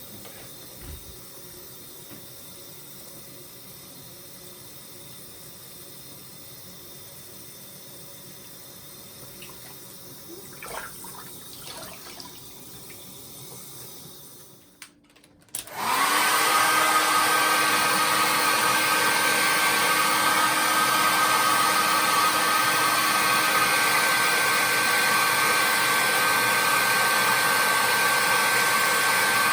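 A hair dryer switches on about halfway through, after a short silence, and then runs loudly and steadily with a constant whine. Before it comes on there is only a quiet steady background.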